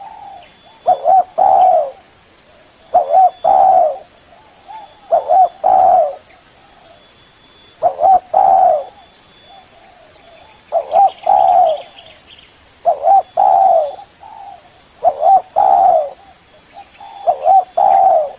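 Spotted dove cooing in a steady series of phrases, one about every two seconds, each two short notes followed by a longer one. It is a lure call meant to draw a rival bird.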